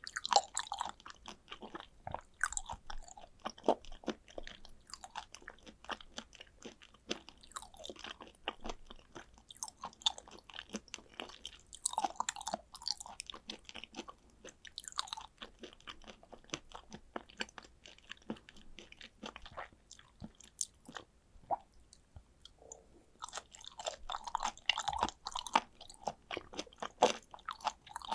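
Close-miked chewing of raw tuna sashimi: dense, irregular wet smacks and mouth clicks, easing off briefly about three-quarters of the way through before picking up again.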